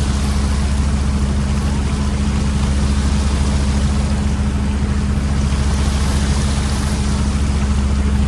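Fishing boat's engine running steadily with a deep, even hum and a noisy wash above it.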